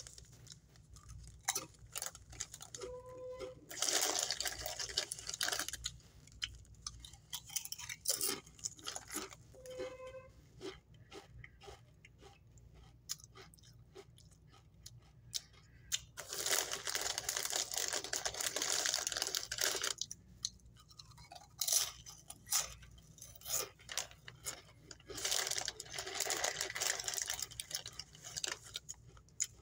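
A person crunching and chewing Doritos tortilla chips in irregular spells with quiet gaps between. The foil chip bag crinkles near the end.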